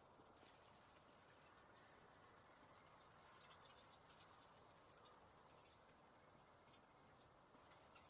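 Faint, high, thin chirps from small birds: about a dozen short notes, irregularly spaced, over a quiet outdoor background.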